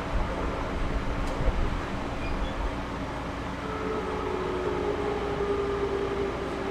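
Interior running sound of a JR Series 211-5000 electric multiple unit: a steady rumble of wheels on rail, with a knock about one and a half seconds in. About halfway through, a whine joins and slides slowly lower in pitch.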